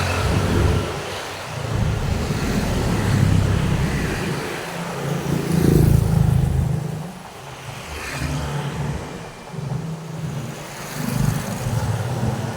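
Road traffic: cars and motorbikes passing one after another, their engines and tyres swelling and fading, the loudest pass about six seconds in.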